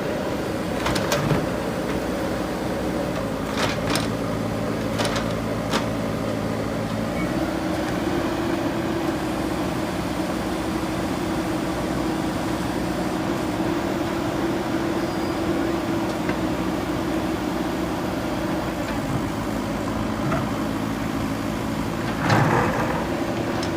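A JCB backhoe loader's diesel engine runs steadily under working load, its note shifting a couple of times as the hydraulics are worked. A few sharp knocks come as the bucket works against the concrete slab, three in the first six seconds and a louder one near the end.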